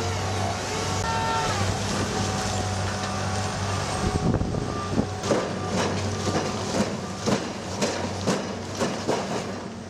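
Heavy machine's diesel engine running steadily, with a gliding whine in the first couple of seconds. From about four seconds in, sharp clanks come roughly twice a second.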